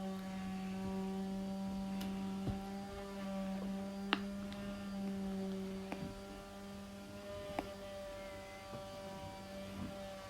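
Electric power sander running steadily with a low, even hum, and a few sharp clicks along the way.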